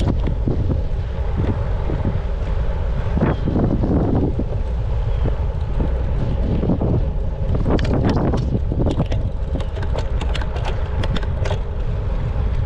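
Wind buffeting the microphone of a bike-mounted camera while riding in a crosswind: a heavy, steady low rumble. From about eight seconds in come a scattering of short clicks and rattles.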